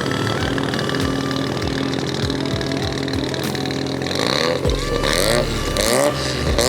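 Engine of a car leaving a car show, idling steadily at first, then revved several times from about two-thirds of the way in, the pitch rising and falling with each rev.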